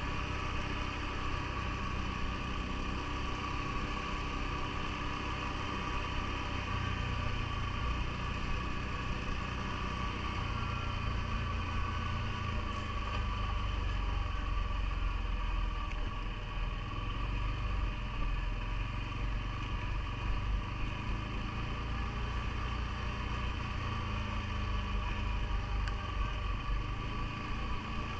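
CFMoto ATV engine running steadily, with a constant high whine over its rumble; the low rumble grows stronger about a quarter of the way in and eases again near the end.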